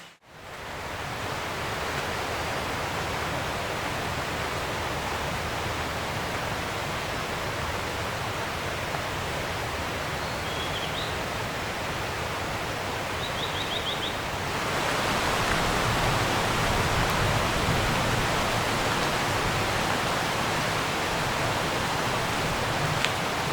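Steady, even rushing outdoor ambience that steps up louder about halfway through, with a few faint, high, quick chirps in the middle.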